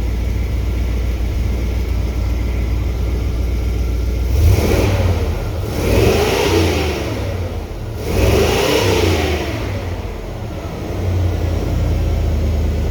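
Ford 460 big-block V8 engine, on its first run after its EFI harness was repaired and converted, idling steadily and then revved twice, each time rising in pitch and falling back to idle, about four and eight seconds in.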